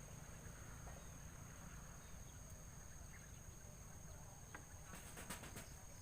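Faint outdoor ambience: a steady high-pitched insect drone over a low rumble, with a few faint chirps and a quick cluster of clicks near the end.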